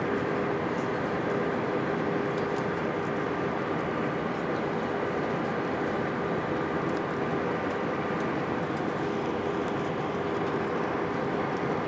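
Steady jet airliner cabin noise: engine and airflow running evenly, with a steady hum through it.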